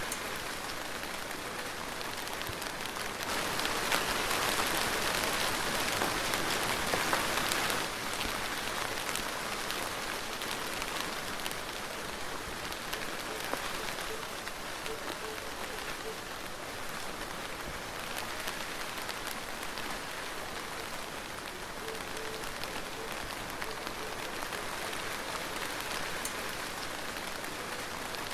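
Soft, steady rain falling, with individual drops ticking through the hiss; it swells louder for about five seconds a few seconds in, then settles back.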